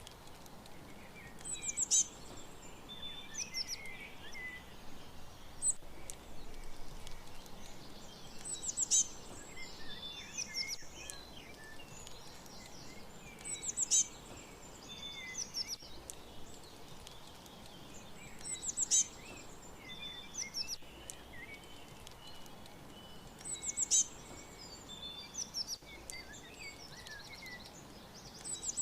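Small songbirds chirping and twittering in short, high phrases, with a louder burst of song every few seconds over a faint steady background hiss.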